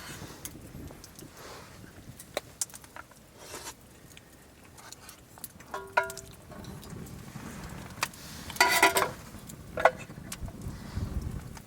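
Small metal objects clinking and rattling among scattered light knocks: a short ringing clink about six seconds in, then a clattering rattle and one more clink near the end.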